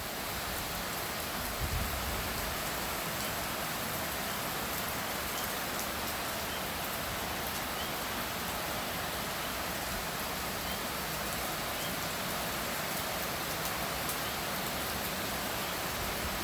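Steady, light rain falling, a mild shower, with faint scattered drip ticks.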